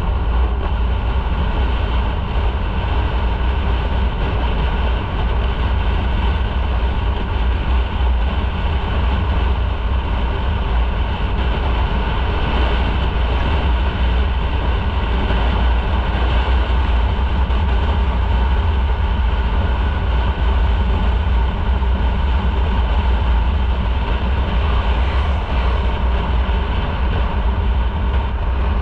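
Motorcycle engine running at a steady speed while riding, with a heavy, even low rumble.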